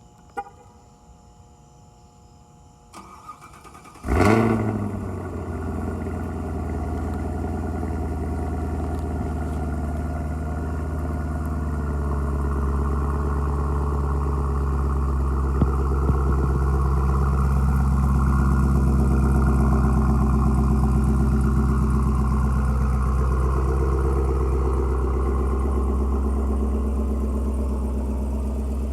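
2018 Camaro ZL1's supercharged 6.2-litre LT4 V8 cold-starting about four seconds in, after a few faint clicks: a sharp flare as it fires, then settling into a steady fast idle that eases off slightly near the end.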